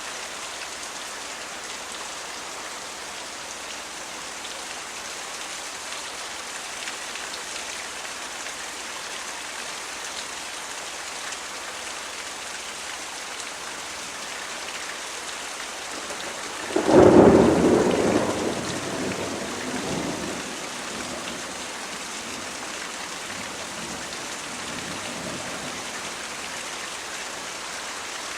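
Steady rain falling, with one sudden loud clap of thunder a little past halfway through that rumbles away over a few seconds.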